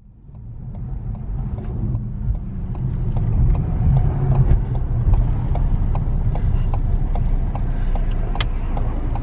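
Low, steady vehicle rumble of a running car, fading in at the start, with light clicks scattered through it.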